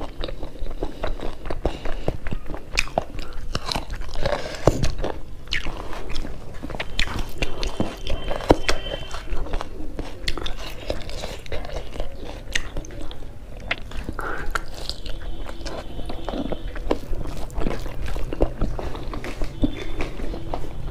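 A person chewing and biting smoked pork curry and rice, eaten by hand, close to the microphone: wet mouth sounds with a steady run of small clicks.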